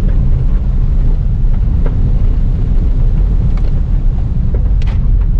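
Rally car being driven hard on a dirt course, heard from inside the cabin: a loud, steady low rumble of engine and tyre noise, with a few sharp ticks, the strongest near the end.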